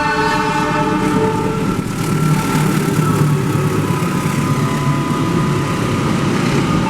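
KRL Commuter Line electric train sounding its horn for about a second and a half at the start, then running past with a steady rumble and a thin, steady high tone.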